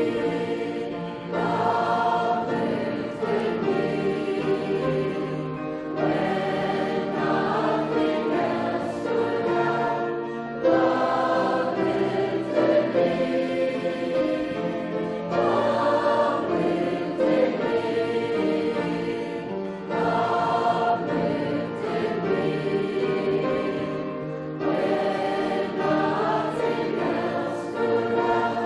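A group of voices singing a hymn together in sustained phrases, with short breaths between lines.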